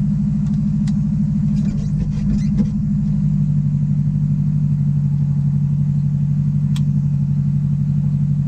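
Subaru rally car's flat-four boxer engine idling steadily, heard from inside the cockpit, with an even, slightly lumpy pulse. A few light clicks about two seconds in and one sharp click near the end.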